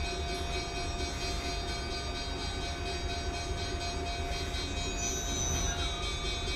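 Train noise: a steady low rumble with a steady tone held over it.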